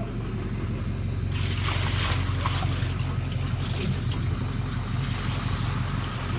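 Water poured into the tub of an old Maytag wringer washing machine, splashing for a couple of seconds, over a steady low hum from the machine's electric motor.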